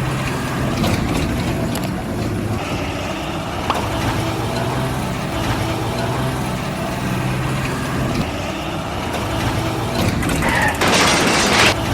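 A truck engine running steadily, with a loud hiss about a second long near the end.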